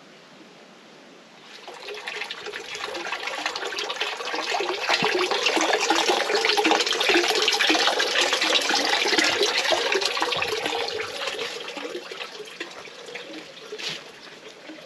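Water splashing and running from a fountain spout. It starts about a second and a half in, grows loud and close through the middle, and fades again near the end.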